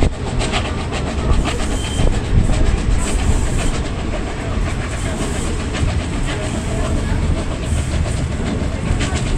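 A vintage passenger coach running behind a steam locomotive, heard from an open coach window: a steady rumble of the carriage, with wheels clicking irregularly over the rails.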